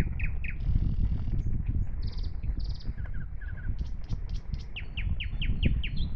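Several songbirds chirping and singing, with buzzy trills in the middle and a run of about eight quick falling notes near the end, over a steady low background rumble.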